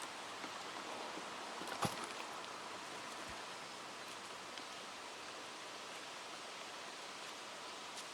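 Steady hiss of wind blowing through leaves, with one sharp click about two seconds in.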